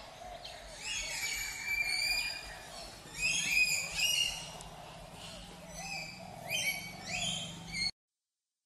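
Bird calls: many short whistled calls that rise and then level off, several overlapping, coming in bunches. They cut off abruptly near the end.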